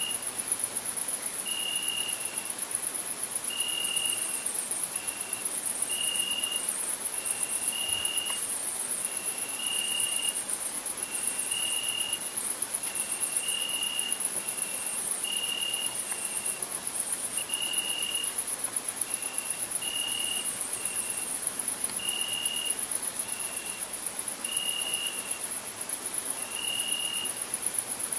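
Crickets chirping: a continuous, very high-pitched pulsing trill, with a lower short chirp repeating about every second or so.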